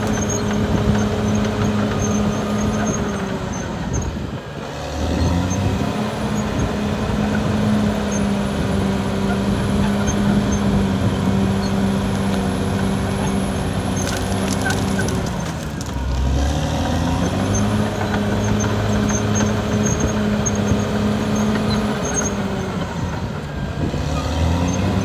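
Caterpillar D6R XL bulldozer's diesel engine running under load. Its pitch sags and recovers twice, about four seconds in and again about sixteen seconds in.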